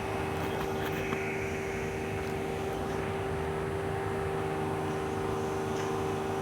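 Tram running with a steady, even hum.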